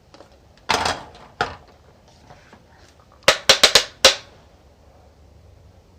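Makeup brush and plastic contour palette being handled: a short scrape, a single click, then a quick run of five sharp taps.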